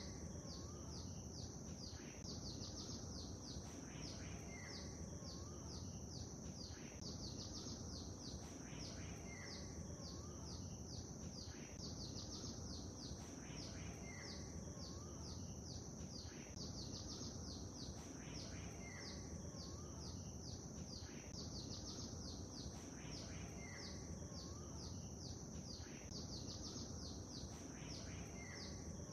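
Lakeside nature ambience: a steady low wash of water under birds chirping, with rapid high chirps throughout. One short bird call, with a curling note, repeats about every five seconds, so the recording is looped.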